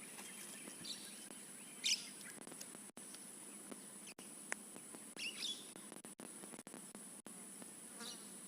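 Steady high insect drone, with a few brief bird chirps about two, five and eight seconds in.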